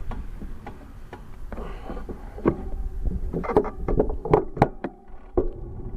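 Irregular knocks and rattles from a bicycle ride, over a low rumble of wind on the microphone.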